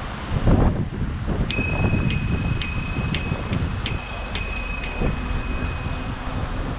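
A bicycle bell rung rapidly about nine times, each ding ringing on with a bright metallic tone, starting about a second and a half in. Wind and riding noise rumble underneath throughout.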